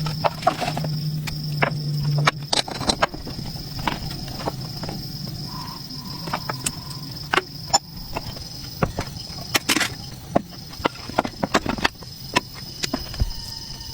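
Irregular sharp clicks and knocks from handwork, over a steady high-pitched insect drone, with a low hum in the first two seconds.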